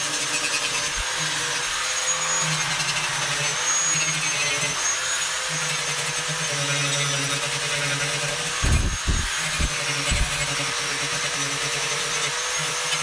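High-speed rotary tool with a diamond disc running steadily with a high whine, grinding down high points on a fire-damaged van panel. A few low thumps come around nine to ten seconds in.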